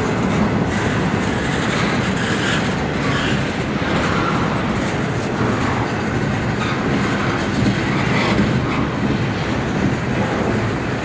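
Intermodal freight train rolling past at close range, a steady loud rumble with the wheels clattering over the rail joints.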